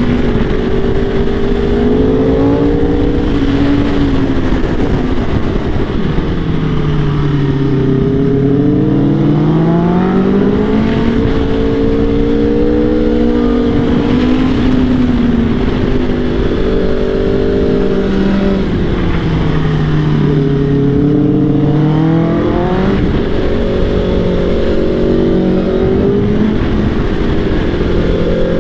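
Motorcycle engine running under load, its pitch repeatedly climbing and dropping as the rider accelerates and slows, over a steady rush of wind on the microphone.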